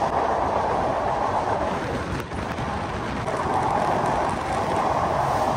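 Steady rushing noise of a moving train.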